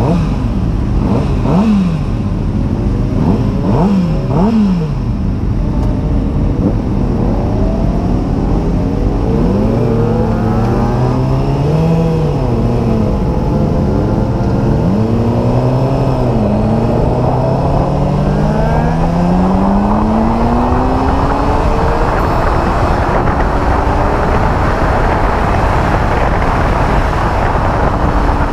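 600cc sport bike inline-four engine revving in short blips, then pulling hard with its pitch climbing and dropping back at each upshift. A rising rush of noise builds near the end.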